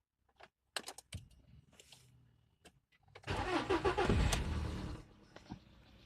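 A few sharp clicks, then the Polo Sedan's CFNA petrol engine cranks over loudly for under two seconds and stops.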